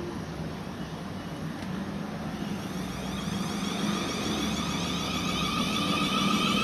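An approaching vehicle, a steady whine with several held tones that grows louder through the second half.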